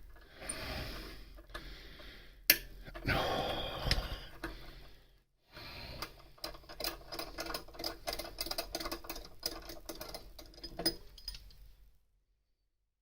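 Threading tap being turned in a drilled-out exhaust stud hole, giving a sharp click and then a run of rapid irregular clicks and creaks as it binds on chips. The sound stops dead near the end.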